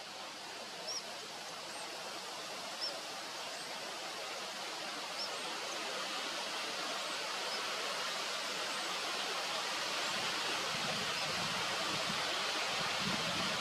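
A steady rushing noise, like running water or wind, slowly growing louder, with faint short high chirps every second or two in the first half.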